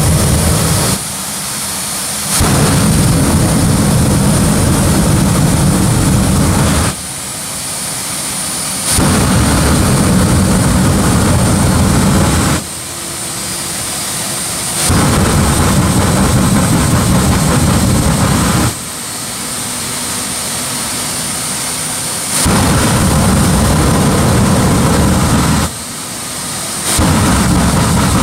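Jet funny car's turbine jet engine running and opened up again and again in loud blasts lasting three to five seconds each, with about two seconds of lower running between them and a steady high turbine whine throughout.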